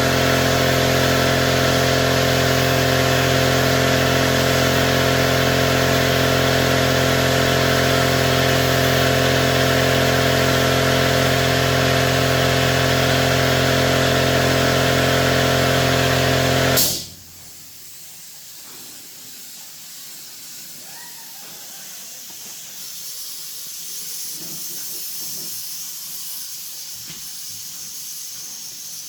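A machine runs steadily: an even hum of several fixed tones over a rushing hiss. It cuts off abruptly about seventeen seconds in, leaving only a much fainter hiss.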